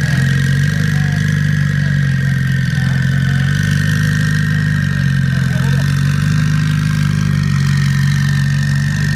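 Twin-turbocharged Ferrari 458 V8 idling steadily, with a steady high whine over the low engine note.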